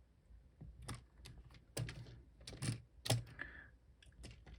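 Irregular light plastic clicks and knocks from a Lego brick model being handled.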